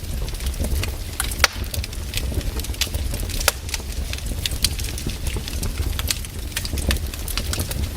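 Wood fire in a fireplace crackling, with irregular sharp pops and snaps over a steady low rumble; one louder pop about a second and a half in.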